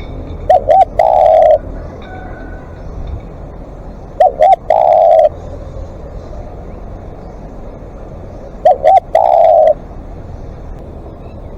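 Spotted dove cooing: three calls about four seconds apart, each two short coos followed by a longer coo.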